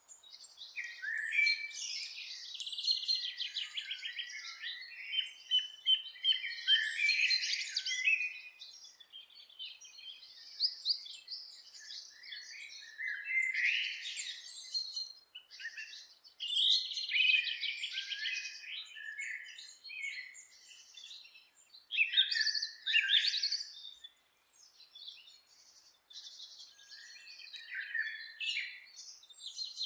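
Several songbirds singing and chirping in overlapping, varied phrases and trills, with brief lulls.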